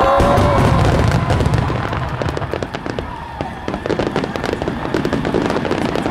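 Star mine fireworks display: a heavy low rumble of shell bursts at the start, then a dense rapid crackling of many small bursts.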